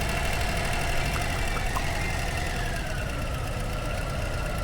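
Harley-Davidson Low Rider ST's Milwaukee-Eight 117 V-twin engine idling with a steady low rumble, the bike rolling slowly into a fuel stop.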